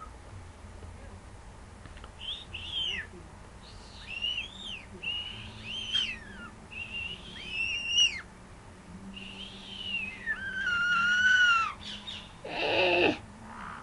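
Pet bird giving a string of whistled calls, each sweeping up and down in pitch, with one longer falling whistle, then a short harsher squawk near the end.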